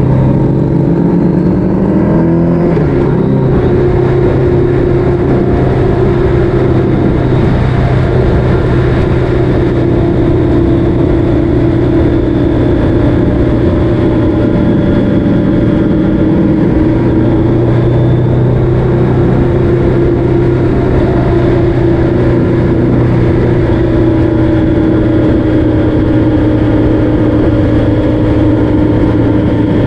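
Road vehicle engine running steadily at cruising speed, with a low rumble of road and wind noise. About two seconds in, the engine pitch climbs and shifts, then holds steady.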